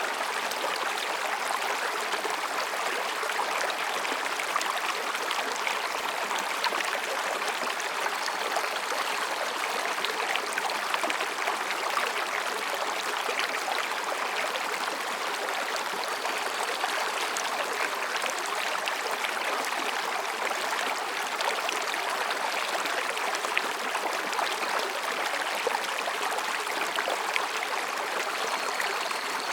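Mountain stream babbling and rushing between rocks, a steady, unbroken flow of water.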